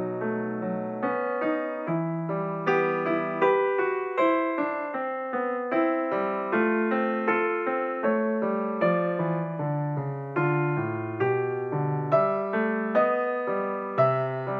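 Background piano music: single notes and chords struck about one or two a second, each fading before the next.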